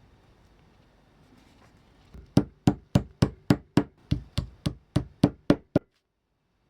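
A rapid, even series of about thirteen sharp knocks, some three a second, that stops abruptly.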